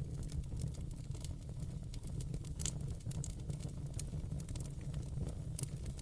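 Wood fire in a fireplace crackling steadily over a low, steady rumble of flame, with scattered sharp pops.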